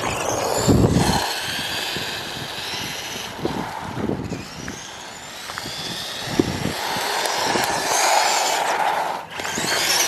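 Electric motor of a Traxxas Mini E-Revo RC monster truck whining as it drives, the whine rising and falling repeatedly with the throttle. There are a few short thumps along the way.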